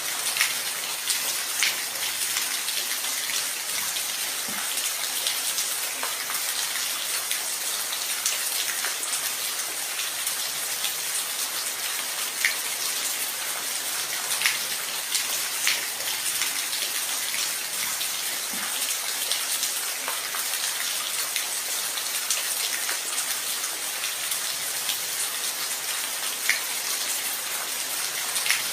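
Steady rain with a constant hiss, with individual drops ticking sharply here and there on top.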